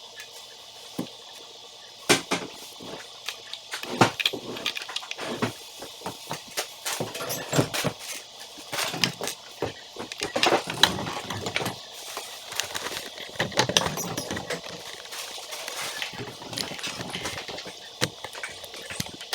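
Small building-set pieces being handled, with many irregular sharp clicks and clatters, busiest through the middle.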